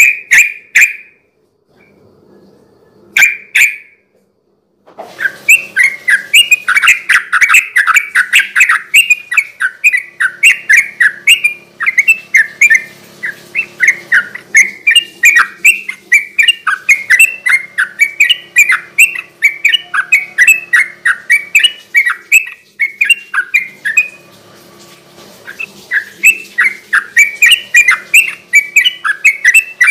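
Sooty-headed bulbul (trucukan) singing its rapid, run-on 'ropel' song: two short phrases in the first few seconds, then from about five seconds in a fast, unbroken stream of chirping notes, about four or five a second, with a brief pause a little past the middle.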